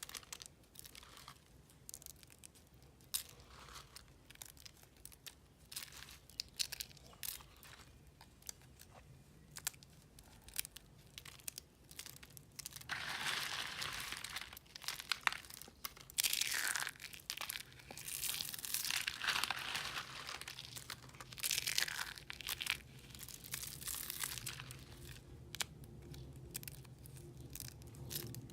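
Dry, crisp recycled blue soap crunching and crackling. It starts as scattered sharp crackles, and from about halfway it turns into longer, denser bouts of crunching.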